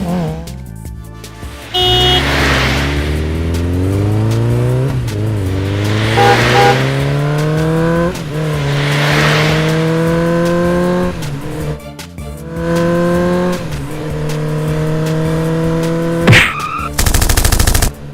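Cartoon sound effect of a vehicle engine revving up again and again, each rev a rising pitch lasting two to three seconds, with a short loud buzzing burst near the end.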